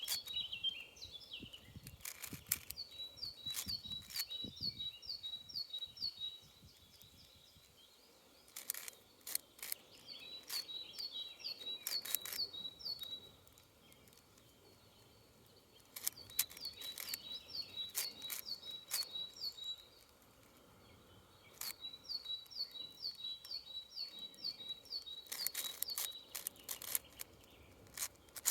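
Plastic clicking and clacking of a 6x6 Rubik's cube being turned, in bursts of rapid turns broken by short pauses. A songbird repeats a short song of quick, high, evenly spaced notes every five seconds or so.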